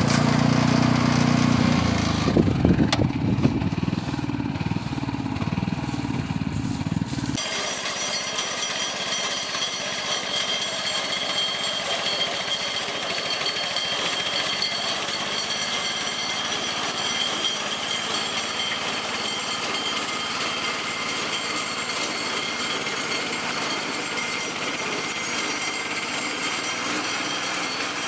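Farm machinery running: a hay baler and its driving engine. The first seven seconds are a loud, low engine sound with repeated knocks. It then cuts suddenly to a steadier machine hum with a high whine in it.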